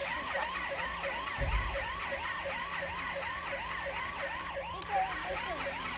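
Electronic siren of a toy fire truck sounding, a fast wail that rises and falls about three to four times a second. A brief low thump comes about one and a half seconds in.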